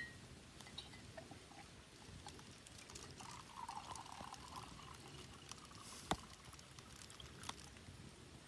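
A faint, short pour of liquid about three seconds in, among scattered light clinks, with one sharp knock just after six seconds.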